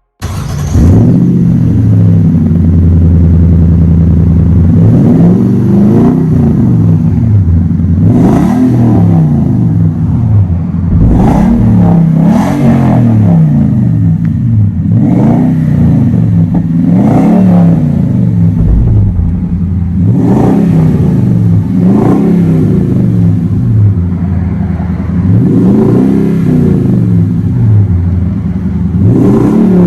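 2021 Toyota Tundra TRD's 5.7-litre V8 through a Flowmaster crossflow true dual exhaust, idling for a few seconds and then revved in about a dozen short blips, the pitch rising and falling with each.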